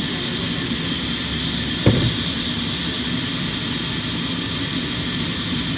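Sawmill machinery running steadily, with a single thump about two seconds in.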